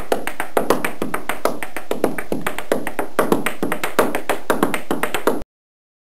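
Rapid, uneven tapping, several sharp strikes a second, that starts and cuts off suddenly.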